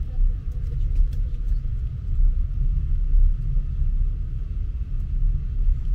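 Low, steady rumble of a train in motion.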